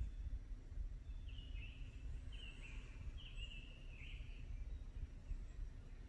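Faint outdoor background rumble, with a bird chirping four times in short calls that each drop at the end, from about a second in to about four seconds in.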